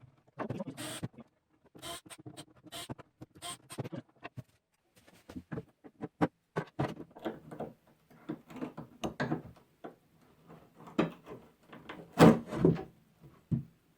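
Wooden chest being worked by hand: irregular short scrapes and knocks on wood, with a few louder knocks near the end.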